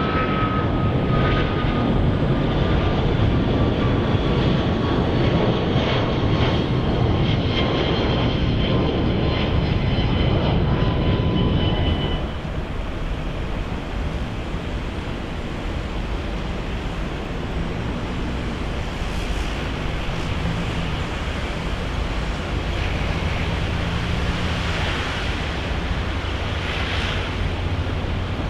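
Jet airliner engines passing, a loud roar with whining tones that slowly fall in pitch. About twelve seconds in the sound drops abruptly to a quieter, more distant jet rumble.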